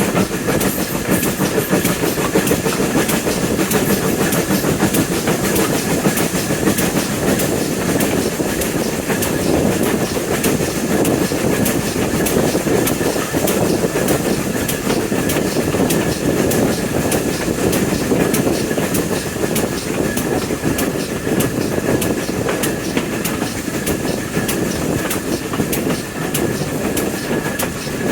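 Train running steadily along the track, its wheels clicking over the rail joints in a regular clickety-clack over a continuous rumble, with a thin steady high whine.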